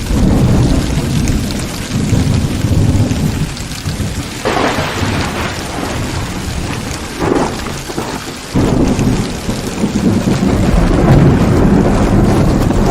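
Heavy rain falling steadily through a thunderstorm, with deep rolling thunder. The rumbling eases off in the middle, then a fresh rumble breaks in suddenly about two-thirds of the way through.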